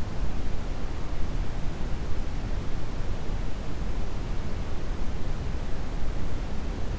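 Steady brown noise: an even, deep rushing hiss with most of its weight low down, unchanging throughout.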